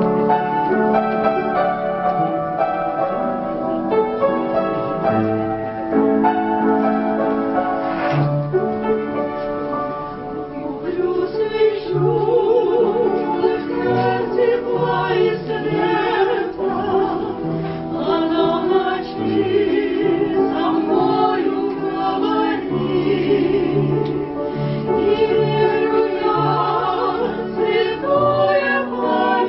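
Keyboard accompaniment playing alone for about the first ten seconds, then a classically trained voice comes in, singing with strong vibrato over it.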